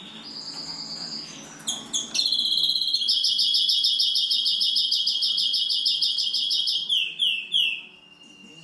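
Greenfinch × canary hybrid (mule) singing: a held high whistle, then a loud, fast trill of repeated notes for about five seconds, closing with three quick downward-sliding notes.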